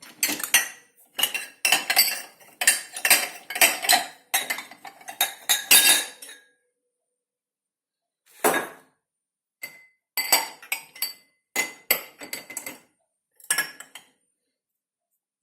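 Plates, bowls and cutlery clattering and clinking as dishes are moved about in the dishwasher racks, a busy run of clinks for about six seconds, then after a short pause a scattering of clinks.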